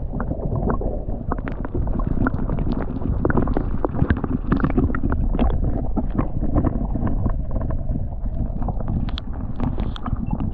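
Wind buffeting the microphone as a steady low rumble, with a dense run of knocks and rustles from handling in a kayak.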